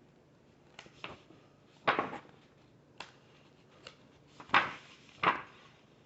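Handling noise: a scattering of short knocks and bumps, about seven in all, the loudest about two seconds in and another, longer one about four and a half seconds in.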